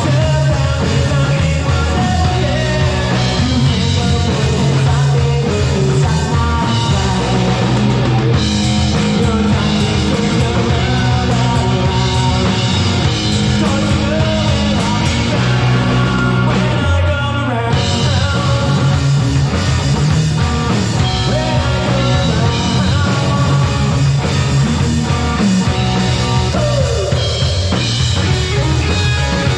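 Rock band music with a drum kit, played loud and steady.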